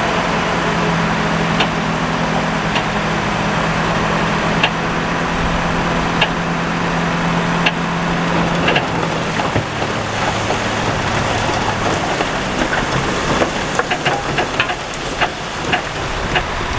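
Heavy earthmoving machinery working: a diesel engine running steadily under a wash of noise, with sharp clanks and knocks of rock and metal that come more often in the second half. The engine note drops to a lower pitch about nine seconds in.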